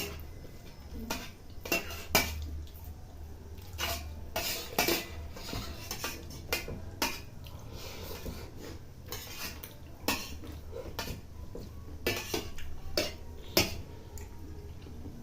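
Spoons clinking and scraping against bowls as several people eat kheer quickly, in irregular scattered clicks.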